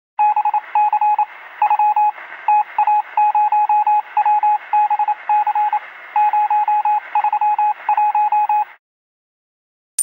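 Morse code sound effect: a single steady beep keyed on and off in short dots and longer dashes over a steady static hiss. It stops abruptly near the end.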